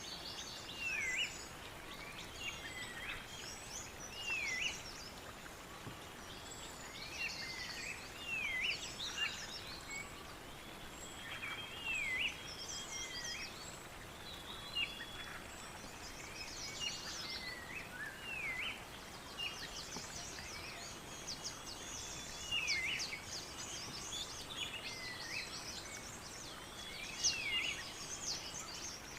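Several birds calling and singing over a faint steady hiss. One bird repeats a swooping note that dips and rises again every second or two, with quick high chirps in between.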